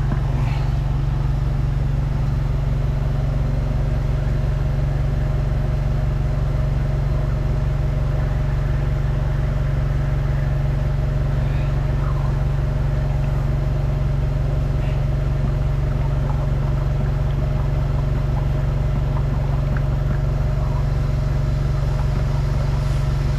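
Engine of a high-pressure drain jetting machine running steadily, a constant low drone.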